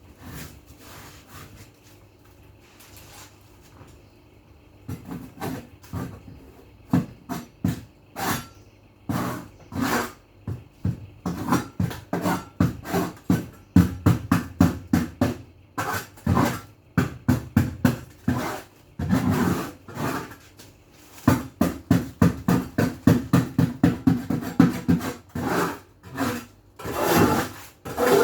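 Fast repeated knocking and scraping strokes, several a second, starting about five seconds in and louder through the second half.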